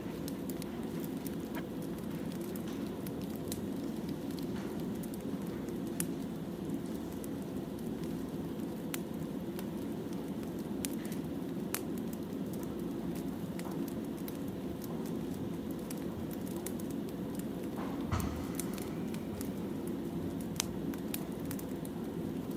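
Wood fire crackling: a steady low rush with scattered sharp pops and snaps, and one louder knock about three-quarters of the way through.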